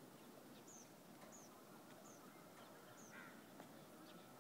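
Near silence with faint, high bird chirps: short notes falling in pitch, repeated about once a second.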